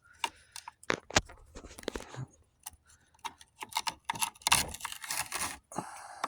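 Razor-blade utility knife cutting and scraping at the packed hair and dirt wound around an upright vacuum's brush roll: irregular clicks and short scratchy scrapes, busiest and loudest about four and a half seconds in.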